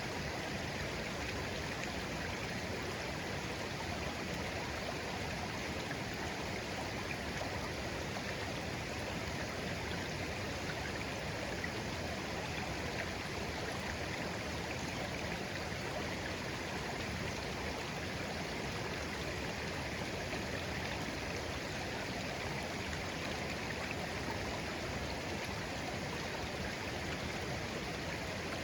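Shallow stream of clear water flowing and babbling steadily over stones, with no breaks or changes.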